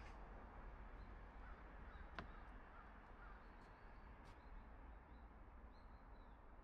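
Near silence of a woodland, with faint high bird chirps repeating in the second half and a single sharp click a little over two seconds in.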